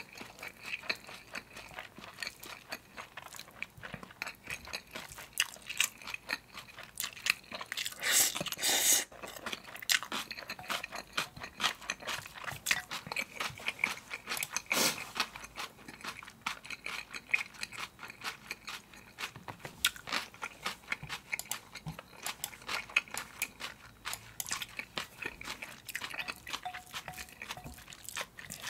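Close-miked eating of cold spicy bibim guksu noodles with aged kimchi: wet chewing and smacking with crunchy bites, in a steady irregular patter of mouth sounds. It gets louder for about a second around eight seconds in.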